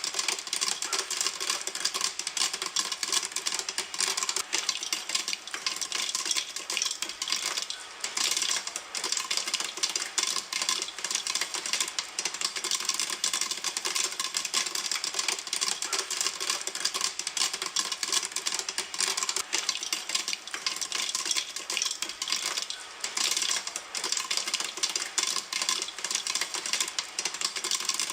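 Popcorn popping in a pan: a dense, steady stream of crackling pops.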